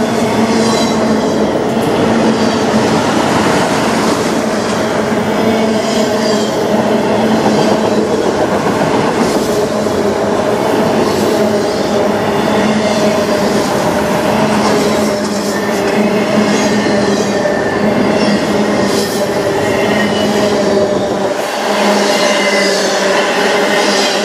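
Autorack freight cars rolling past at speed: a steady rumble of steel wheels on rail with a continuous metallic squeal and scattered clacks over rail joints.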